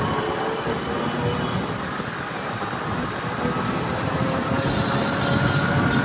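Tractor diesel engine running steadily, its pitch rising slowly.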